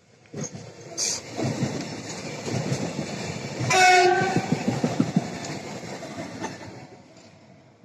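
EN75 (Stadler FLIRT) electric multiple unit running past close by. Its wheels rumble and clatter, growing louder as it nears and fading away as it leaves. It gives one short horn blast about four seconds in.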